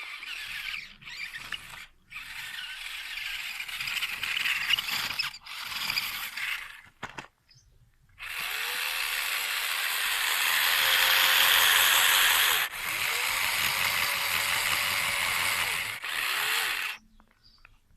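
Toy remote-control truck's small electric motor and gearbox whirring as it drives, in runs with short stops. There are two shorter runs, then a longer one of about nine seconds in the second half, with its pitch rising and falling.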